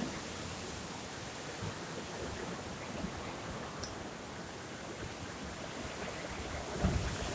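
Steady rushing wash of sea surf, with a brief low bump near the end.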